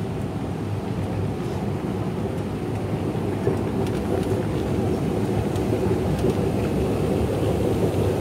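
Steady low rumble of a London Underground train in the station, growing slightly louder.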